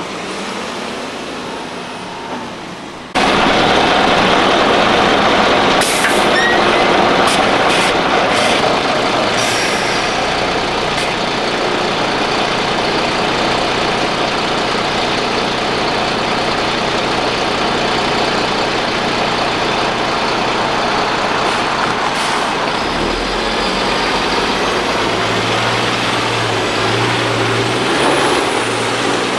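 Heavy military trucks running and driving, with short hisses of air brakes. The noise gets suddenly louder about three seconds in.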